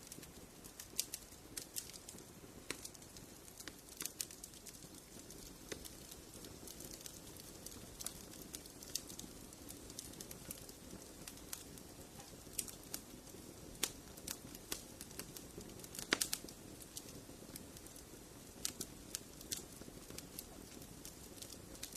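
Wood fire crackling in a fireplace: a low hiss of flames with frequent sharp pops and snaps at irregular intervals, a cluster of louder pops about 16 seconds in.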